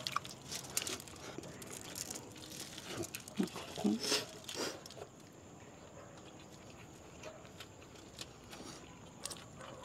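Eating and handling food: scattered clicks, crunches and crinkling of wrappers, busiest in the first half and then dying down to faint background.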